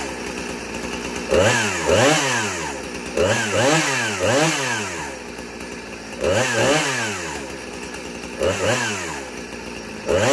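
Husqvarna 455 Rancher two-stroke chainsaw running, its throttle blipped in quick pairs and threes about every two seconds, the engine revving up and dropping straight back to idle between blips.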